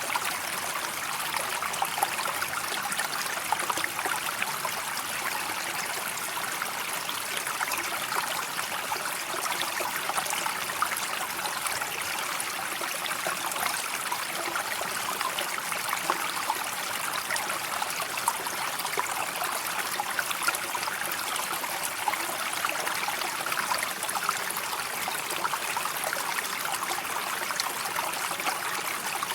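River water flowing and trickling steadily, a continuous babble with many small splashy peaks.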